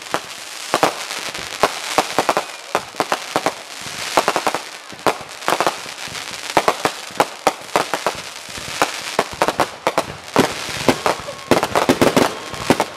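Consumer fireworks grand finale: an unbroken, irregular string of sharp bangs and crackling reports from cakes and shells, several a second.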